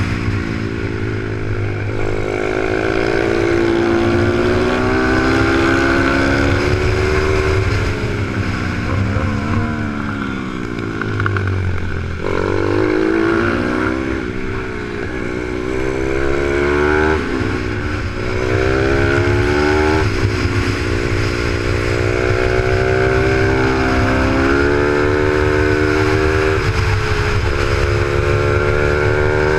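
Onboard sound of a supermoto pit bike's Z155 single-cylinder four-stroke engine run hard around a kart track: the revs climb through the gears, drop sharply at each shift, and fall away off the throttle for corners before climbing again.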